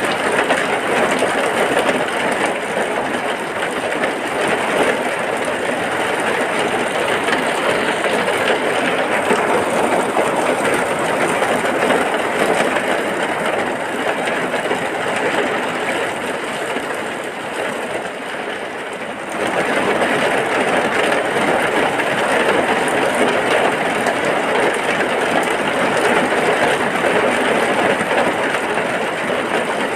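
Heavy rain pouring steadily, a dense even hiss. It eases a little for a few seconds and returns suddenly about nineteen seconds in.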